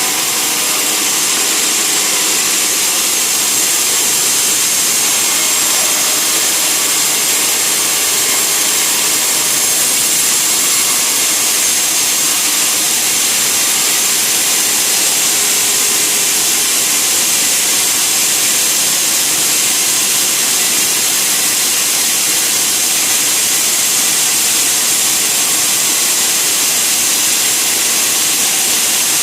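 Sawmill saw running steadily, a loud, even hiss with no breaks or changes.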